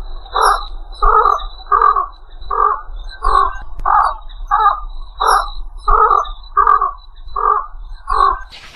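Egret giving a run of about a dozen short, rough croaking calls, about three every two seconds.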